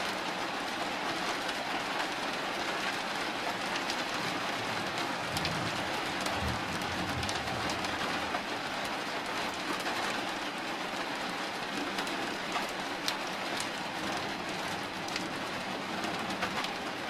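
Steady rain falling during a night thunderstorm, a continuous hiss with scattered drop clicks. A brief low rumble comes about six seconds in.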